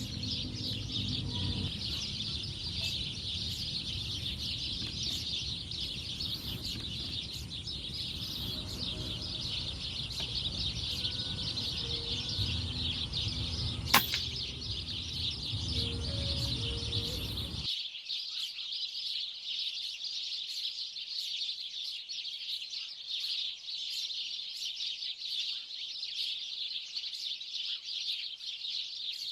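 A large flock of small birds chirping and chattering continuously, many calls overlapping. About halfway through a single sharp crack stands out, an air-rifle shot. A low background rumble cuts out abruptly about two-thirds of the way in, leaving only the birds.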